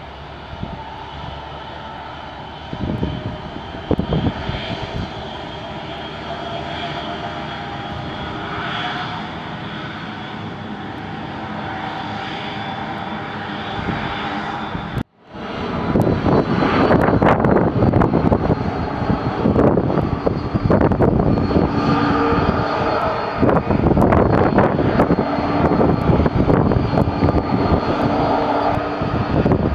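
Airliner engines running on or near the runway, a steady whine over a rushing noise. About halfway through the sound cuts out abruptly and comes back louder and rougher.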